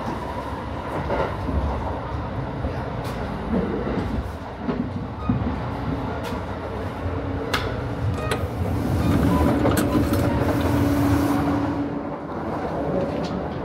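Running noise of the Kintetsu Aoniyoshi express heard from inside the carriages: a steady low rumble with scattered sharp clicks. It grows louder for a couple of seconds past the middle.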